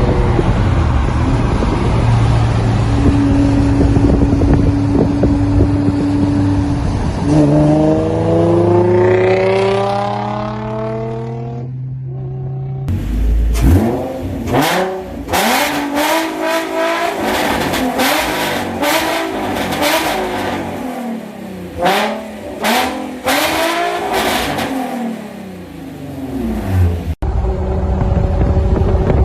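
Infiniti G35's 3.5-litre VQ35 V6 through aftermarket headers and a Motordyne TDX2 exhaust, loud throughout. It runs steadily, then rises in pitch through a long pull. After a break comes a quick series of revs, each rising and falling.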